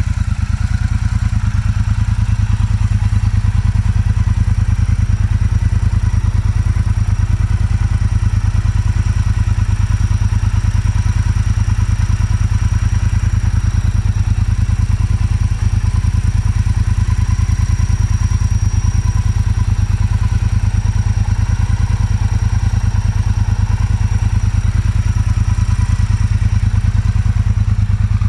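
Motorcycle engine running steadily at an even speed, with a rapid, even beat of firing pulses and a light mechanical clatter.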